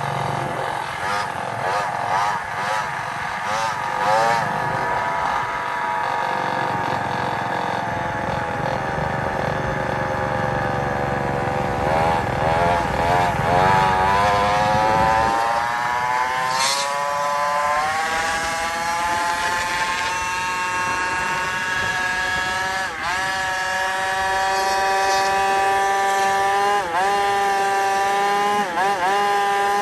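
Small petrol engine of a ride-on bike running at high revs while being ridden, its pitch wavering with the throttle. The pitch climbs about halfway through, and there are several brief quick dips near the end. Wind rumbles on the microphone during the first half.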